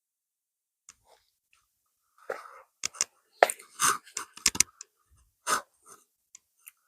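A person chewing and breathing close to the microphone: a run of short, irregular mouth noises with a few sharp clicks, starting about two seconds in.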